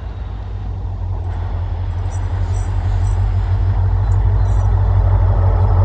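Diesel locomotive hauling a passenger train, approaching: a low engine rumble that grows steadily louder, with scattered sharp clicks from the wheels on the track.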